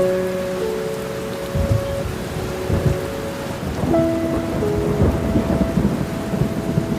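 Steady heavy rain with thunder rumbling from about a second and a half in, over soft sustained music chords that change about every four seconds.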